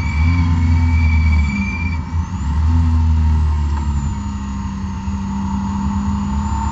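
BMW E36 M3's inline-six engine running at fairly steady, moderate revs inside the car, with a brief easing about two seconds in. The engine is down on power from a bad engine map, with torque falling off at 5800 rpm.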